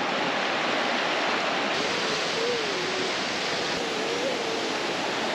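Rushing glacier-fed mountain stream: a steady, even water noise.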